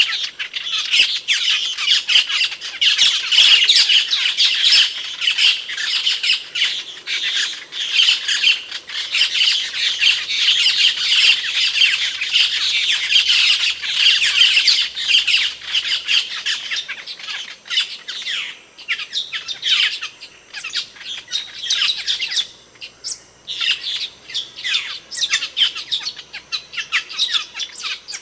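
Asian glossy starling calling loudly with sharp, rapid notes. The calls pour out as dense continuous chatter for the first half, then thin to separate sharp calls with short pauses.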